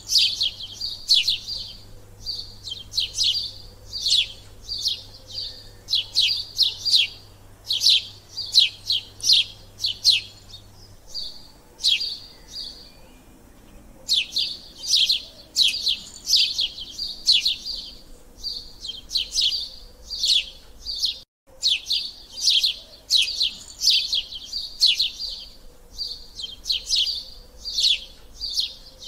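Small bird chirping in quick, high, repeated bursts of several rapid notes each, one or two bursts a second, with a short lull about eleven seconds in.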